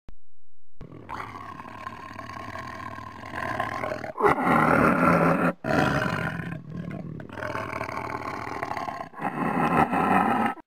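Tiger sound effect: a tiger growling and roaring in several long, rough bouts with short breaks. The bouts grow louder after the first few seconds.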